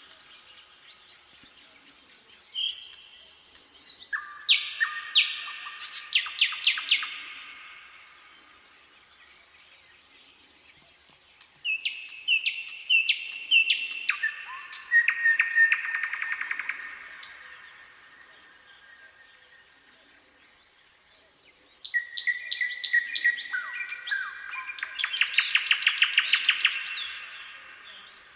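Nightingale singing: three phrases of rapid repeated notes and short whistles, separated by pauses of a few seconds.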